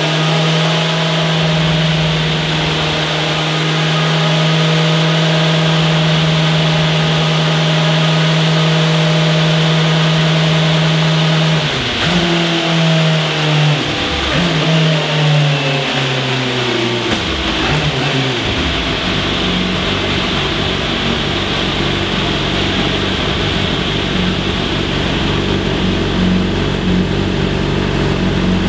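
Motorcycle engine held at steady high revs, then the throttle closes and the revs fall and rise several times before it settles to a lower, uneven running note about two-thirds of the way in.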